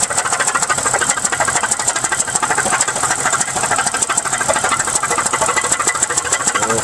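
2001 Pontiac Grand Prix GTP's 3.8-litre supercharged V6 idling roughly with a fast, steady knocking clatter. The owner blames a bad piston, an engine that is blown and needs replacing.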